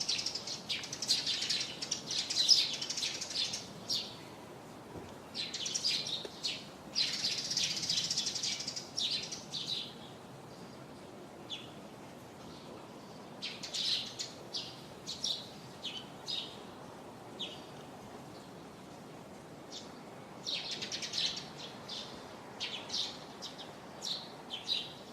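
Small birds chirping in bursts of rapid, high calls lasting a few seconds each, with short pauses between them, over a faint steady background hiss.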